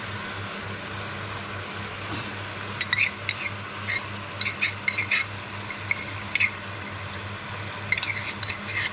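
Chicken thigh fillets frying in a little oil in a pan: a steady sizzle, with spells of sharp crackling and spitting about three seconds in and again near the end.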